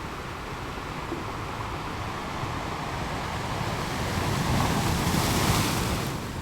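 Ocean surf rolling in: a steady wash of waves, with one wave swelling to a louder, hissing break about two-thirds of the way through before it eases off.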